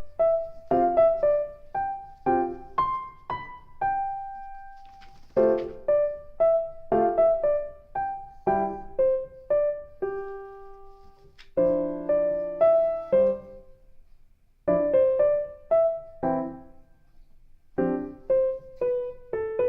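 Background piano music: a slow melody of single struck notes over soft chords, played in phrases with short pauses between them.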